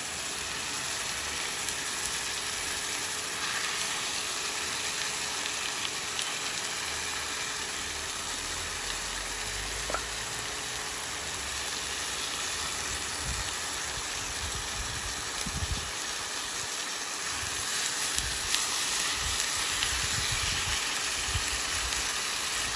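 Onions frying in oil in a hot pan, a steady sizzle. A single click about halfway through, then irregular low knocks and handling in the second half.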